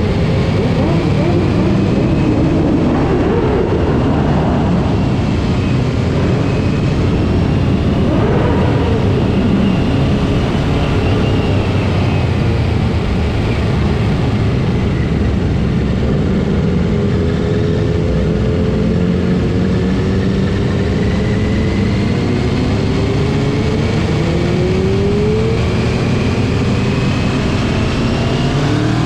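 Motorcycle engines running in a group ride over a steady rushing noise, their notes rising and falling as the bikes accelerate and ease off, with one engine revving up near the end.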